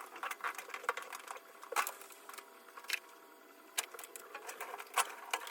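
Irregular light clicks and knocks of hands at work connecting up the washing machine's hoses and fittings, a few sharper knocks among them, over a faint steady hum.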